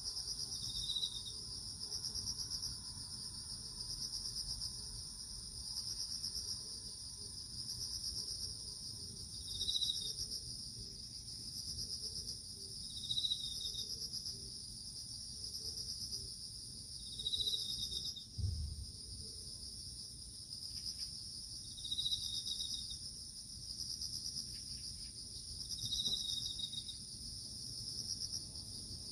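Crickets singing: a continuous, gently pulsing high trill, with a second cricket's shorter chirp coming back about every four seconds. There is a brief low bump about eighteen seconds in.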